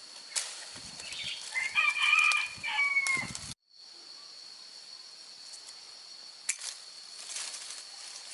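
A rooster crowing once, a long held call that dips in pitch at the end, with a steady high thin tone in the background. The sound cuts out briefly just after the crow.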